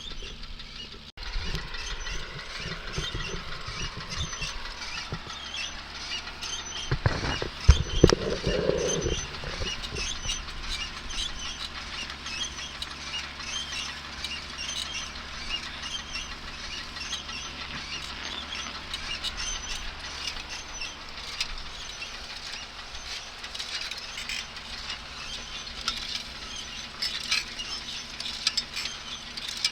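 Light rain pattering steadily, a dense run of small drop ticks, with a brief cluster of loud low thumps about seven seconds in.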